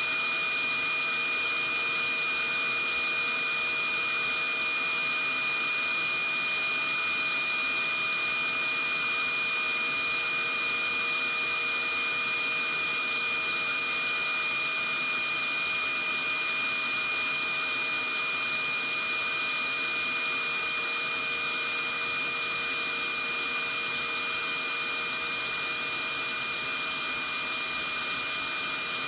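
Vacuum cleaner running steadily: an even rushing hiss of air with a constant high whine from the motor.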